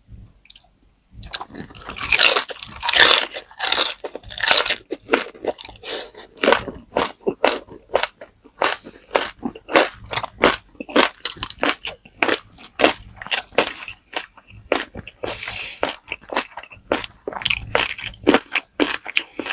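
Close-up eating sounds: crunching bites and chewing of crispy deep-fried pork knuckle skin (crispy pata), a dense run of crackling crunches that starts about a second in.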